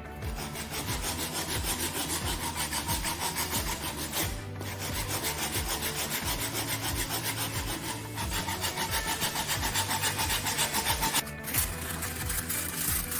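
Hand sanding of hard, cured epoxy putty on a carbon fiber tube: sanding grit rasping back and forth in even strokes of about three a second, with short pauses about four and eleven seconds in.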